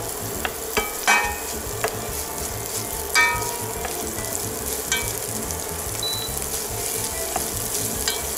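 Chopped onion and garlic sizzling in olive oil in a frying pan, stirred with a wooden spatula that knocks against the pan several times.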